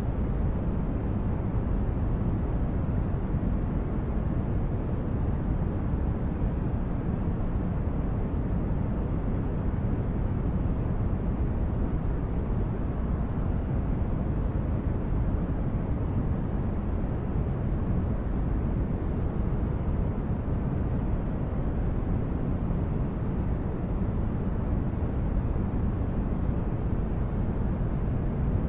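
Synthetic sci-fi spaceship interior ambience: a steady, deep rumbling noise like brown noise, even throughout with no distinct events.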